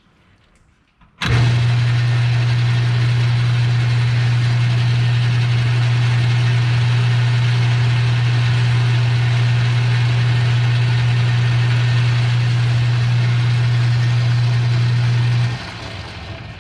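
Metal lathe switched on about a second in, its electric motor running with a steady low hum and gear noise while it takes a cut on a hinge pin. It is switched off near the end and spins down.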